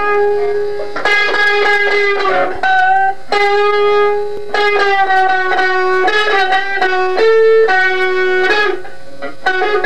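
Electric guitar, apparently through effects, playing a string of long sustained notes that each ring for a second or two, changing pitch with short attacks between them and bending down in pitch near the end.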